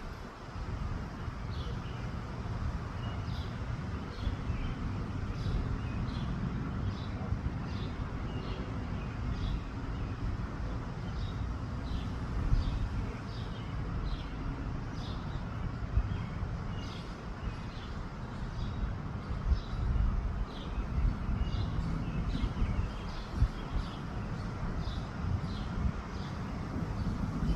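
Wind buffeting the microphone in a steady low rumble, with a small bird calling in short high notes about once or twice a second.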